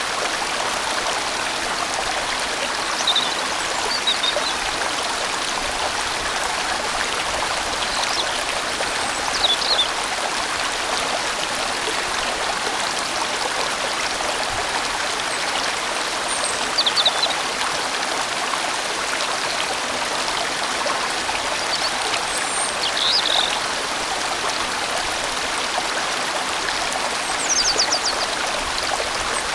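A large mountain valley stream flowing over rocks, a steady, full rushing of water. A few short high chirps rise above it now and then.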